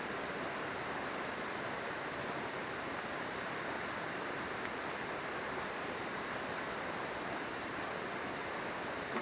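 River water rushing steadily, with a few faint crackles from a wood campfire about two seconds in and again near the end.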